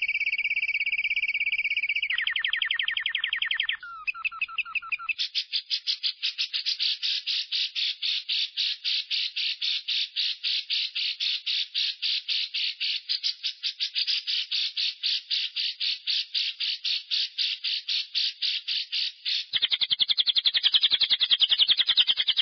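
Lovebird 'ngekek': a long run of sharp, evenly spaced chattering notes, about five a second, held for some fourteen seconds. It opens with a brief steady high whistle and a short trill, and near the end breaks into a faster, buzzier trill.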